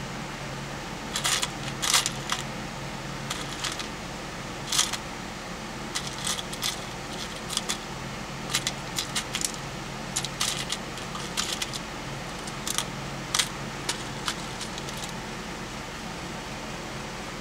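Small metal hardware clinking and jingling in irregular bursts as it is rummaged through and handled, over a steady low hum.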